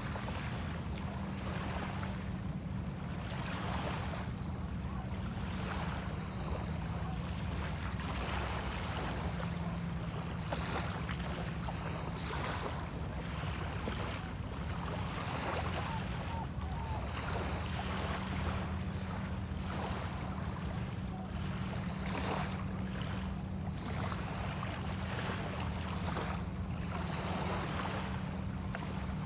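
Small bay waves lapping and washing on a sandy shore, coming and going every second or two, over a continuous low steady hum like a motor running.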